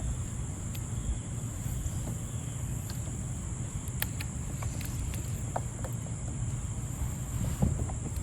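Steady high-pitched insect chirring from crickets over a low rumble, with a few small clicks and knocks scattered through it.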